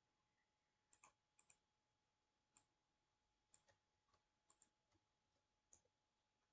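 Faint, scattered clicks at a computer, about a dozen over the span, several in quick pairs, over near silence.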